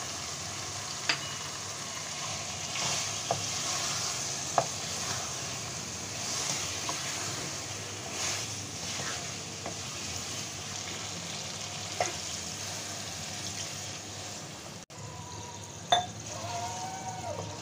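Chicken and boiled chickpeas sizzling in masala in an aluminium pan while being stirred with a plastic spatula, with a few sharp knocks of the spatula against the pan.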